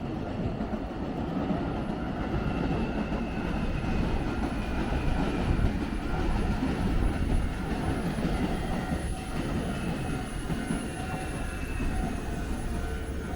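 Hankyu electric train passing over a level crossing: a steady rumble of wheels on the rails, with a faint whine that slowly falls in pitch.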